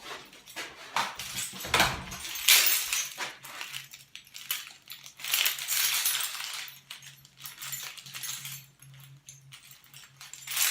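A bunch of keys jangling, with irregular metallic clicks and rattles of locks being unlocked, over a faint steady low hum.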